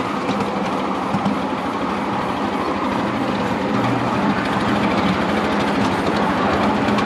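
Miniature railway train running along the track, a steady continuous rumble.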